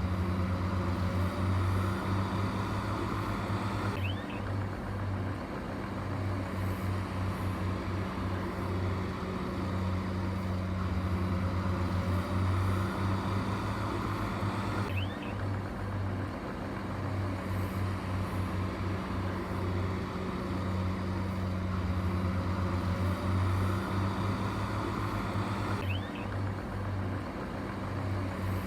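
Heavy diesel earthmoving machinery engine running steadily with a deep, even hum. A faint short squeak recurs about every eleven seconds, where the engine note shifts slightly.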